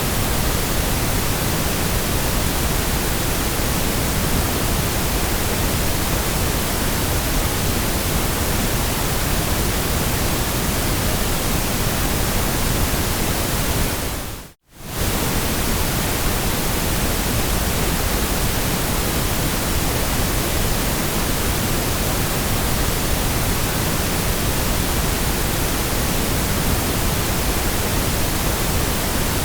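Steady white noise, an even hiss across the whole range from deep to high, which fades out briefly to silence about halfway through and comes straight back.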